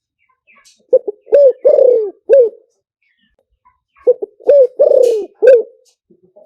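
Spotted dove cooing: two phrases of four notes each, about three seconds apart, the long third note of each sliding down in pitch.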